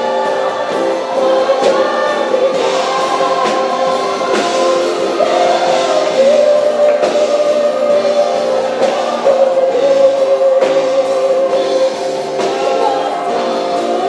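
Group of voices singing a Christian worship song with instrumental accompaniment and a steady beat.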